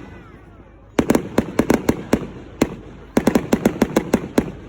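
Fireworks going off in rapid volleys of sharp cracks. A burst of crackling comes about a second in, then a single bang, then a dense crackling volley near the end.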